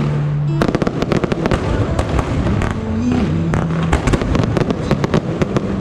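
Fireworks going off in rapid succession: many sharp bangs and crackles, with a song's held low notes playing underneath.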